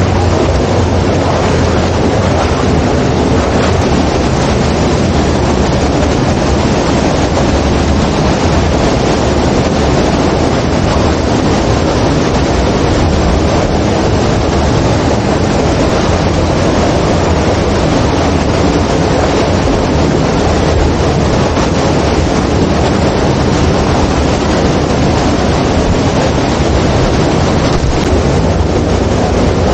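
Motorcycle riding at speed: steady wind rush on the microphone over a low engine and road rumble, unbroken throughout.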